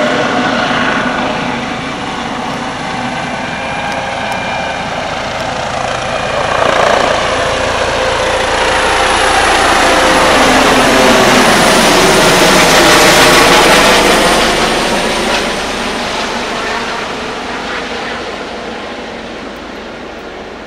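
Rescue helicopter's rotors and turbine in flight, growing louder to a peak about two-thirds of the way through, then fading as it flies off.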